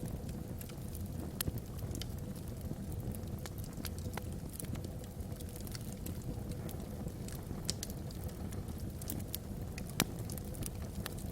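Wood fire burning in a fireplace: logs crackling with frequent sharp pops, one louder pop about ten seconds in, over a steady low rumble.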